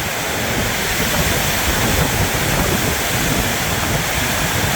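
Heavy rain drumming on a corrugated metal roof, a steady loud roar with gusting wind.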